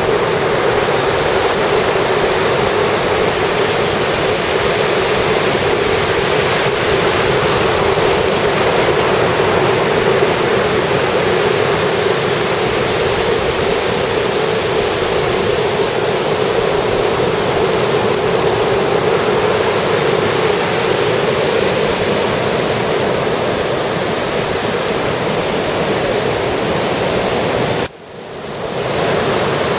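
Ocean surf washing onto a beach: a continuous, even rushing of breaking waves. Near the end it drops away suddenly and swells back in over a second or so.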